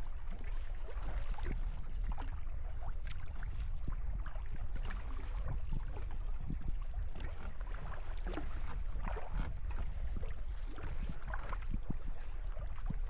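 Kayak paddling on sea water: irregular splashes, swishes and drips from the paddle blades and hull, over a steady low rumble.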